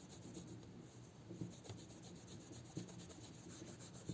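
Faint repeated rubbing strokes, with a few light clicks: an acrylic watch crystal being rubbed with acrylic polishing paste.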